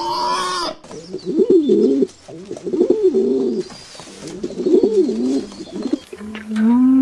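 Pigeon cooing in three rolling phrases. Before it the tail of a pig's call ends in the first second, and near the end a bear starts a loud, deep, humming call.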